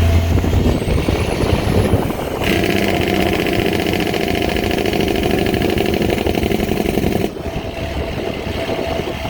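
Straight-piped Kenworth T800 diesel on its Jake brake (engine compression brake), a loud rapid even chatter through the open stacks that starts about two and a half seconds in and cuts off abruptly near the seven-second mark, leaving the engine running more quietly.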